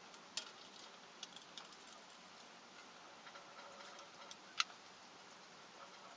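Scattered light clicks and clinks, like small metal parts or tools being handled, the two sharpest about half a second in and just past four and a half seconds.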